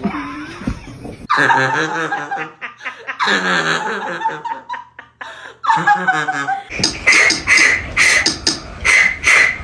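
A person laughing: long wavering laughs, then quick rhythmic bursts of laughter after a cut.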